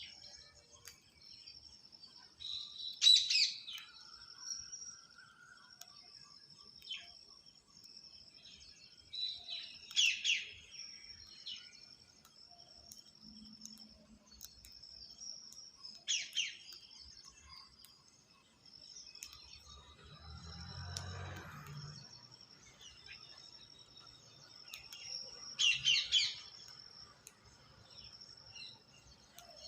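Birds chirping: four short, sharp calls spaced several seconds apart over a steady high-pitched background tone, with a low rumble for a couple of seconds past the middle.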